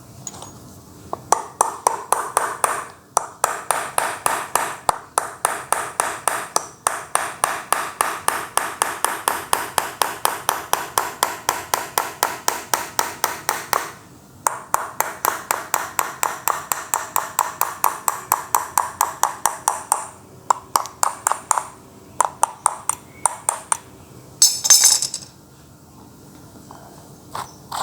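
Rapid, evenly spaced metallic taps, about four or five a second in several runs with short pauses, each with a ringing ping: a hammer driving a punch in a hole drilled in a bicycle freewheel's outer lock ring to turn it loose without the proper tool. A short metallic rattle follows near the end.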